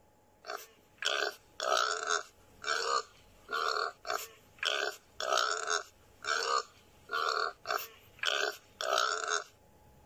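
Domestic pig grunting: a run of about a dozen short, loud grunts in quick succession, one every half second or so.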